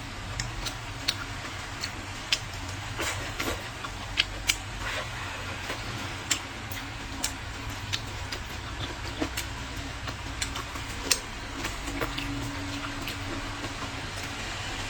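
Eating sounds: irregular sharp clicks and smacks, a few a second, from chewing and utensils, over a steady low hum.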